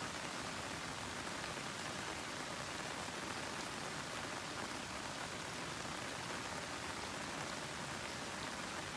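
Steady rain falling on broad-leaved garden plants, a constant even hiss without let-up.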